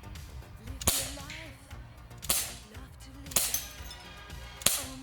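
Four sharp gunshots at irregular intervals of about a second or so, each a light crack with a short ringing tail, from a gun being fired at bottles.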